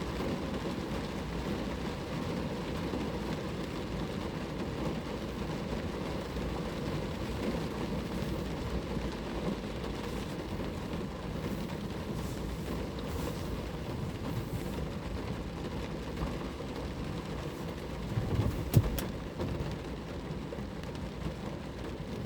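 Steady rain falling on a car, an even patter-free hiss of drops on the body. A single sharp knock a little before 19 s stands out above it.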